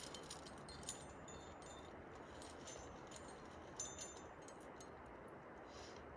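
Metal climbing gear clinking and jingling in scattered light clicks, one sharper clink near the end, over a steady faint hiss.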